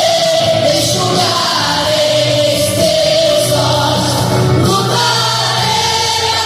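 Gospel music: voices singing a slow, held melody together over steady instrumental accompaniment.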